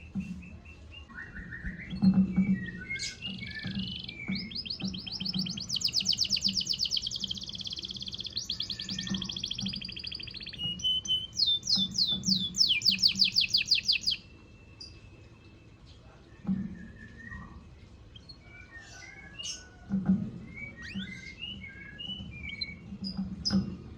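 Moulting domestic canary singing in long, fast trills of repeated high notes, then breaking off about two-thirds of the way through into a few scattered chirps.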